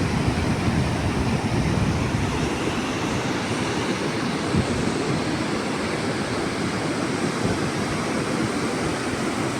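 Ocean surf breaking steadily on the beach, with wind on the microphone.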